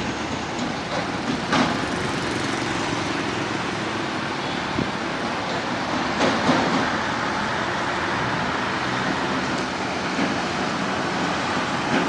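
Steady roadside traffic noise: the even rush of passing vehicles' tyres and engines, with a few short knocks.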